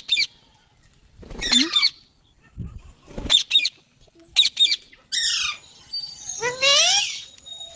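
Indian ringneck parrots giving a run of short, harsh squawks and screechy calls with quiet gaps between them, some sliding down in pitch, and a longer call near the end.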